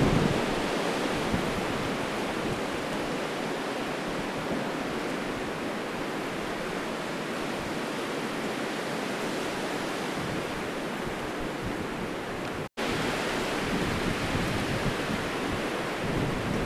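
High wind in gusts of up to 60 mph making a steady, broad rushing hiss. The sound cuts out for an instant about 13 seconds in.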